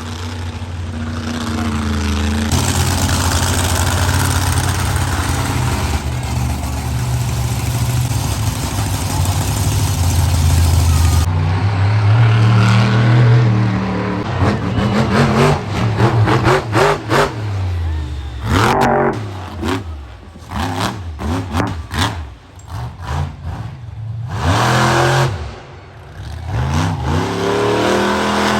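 Monster truck engine running hard at high revs for about ten seconds, then revved in short bursts, its pitch rising and falling with brief drops between.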